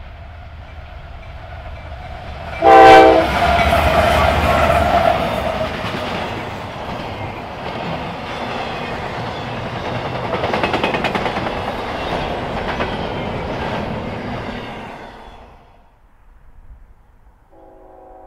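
Freight train passing: a diesel locomotive rumbles as it approaches and gives one short, loud horn blast about three seconds in. The cars then rattle and clatter over the rail joints for about twelve seconds, fading away near the end.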